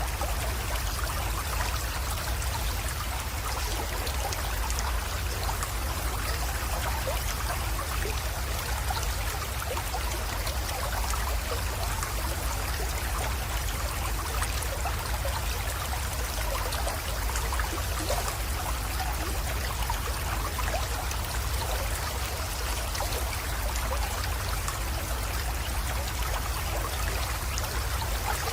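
Small spring-fed creek flowing and trickling steadily, an even rush of water with small splashes, over a constant low rumble.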